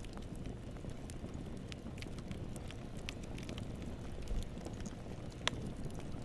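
Steady low rumbling noise with irregular sharp crackles and pops scattered through it, one louder pop about five and a half seconds in.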